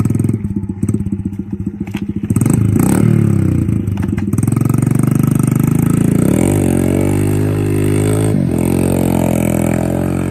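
Off-road vehicle engine revving hard in first gear while churning through a deep mud hole. There is some clatter early on, then the revs climb sharply about two seconds in and stay high, with a brief dip about eight seconds in.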